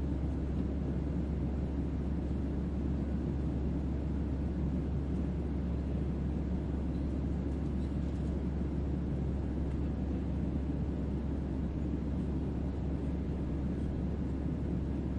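Steady low noise with a deep bass hum underneath, a synthetic starship-interior ambience made as sleep white noise.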